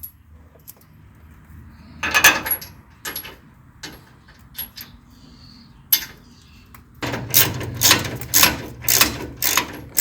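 A few scattered metallic clicks and clinks, then from about seven seconds in a ratchet wrench clicking in quick repeated strokes as a bolt is worked on.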